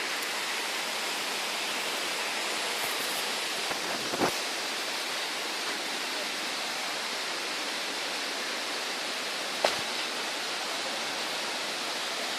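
Steady rushing roar of a waterfall, an even wash of falling water with no change in level. Two faint short ticks, about four and ten seconds in.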